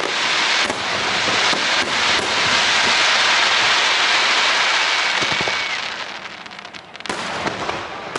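Aerial fireworks going off: a dense, continuous crackle with sharp bangs mixed in, which dies down about six seconds in before a new cluster of bangs starts about a second later.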